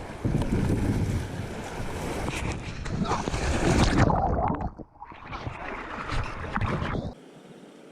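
Water and wind noise around a kayak on a river, heard through an action camera's microphone. It is loud and rough, dips briefly past the middle and cuts off suddenly near the end.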